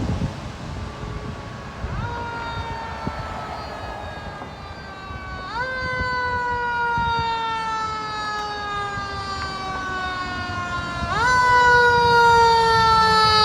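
Fire truck siren wailing in slow cycles: the pitch sweeps up quickly, then falls slowly for about five seconds, three times over, getting louder in the last cycle as it approaches. A low vehicle rumble runs underneath.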